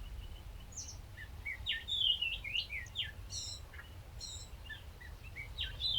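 Small birds chirping: a quick run of short, sharp sliding notes starting about a second in, a few higher notes after it, and another run near the end, over a steady low rumble.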